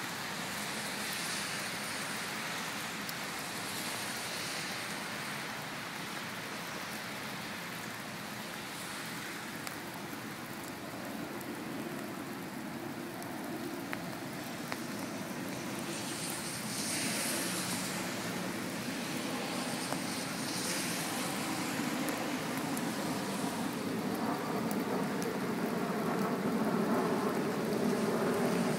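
Steady hiss of heavy rain falling on wet pavement, with a low vehicle engine rumble that builds from about halfway and grows louder toward the end.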